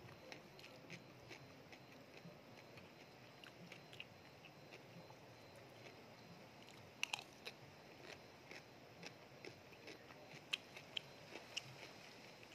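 A person chewing a sea-grape urap salad close to the microphone: soft, wet mouth clicks and smacks at an uneven pace, with a few sharper clicks about seven seconds in and again around ten to eleven seconds.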